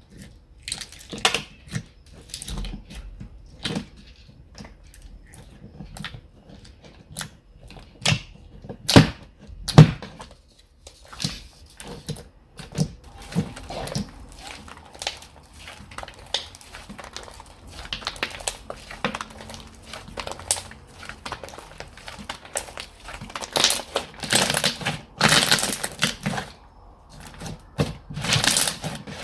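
Slime being played with by hand: an irregular run of sharp clicking pops and squelches, with longer crackly stretching noises near the end.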